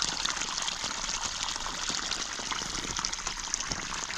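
Steady running water with a continuous trickling, splashing hiss.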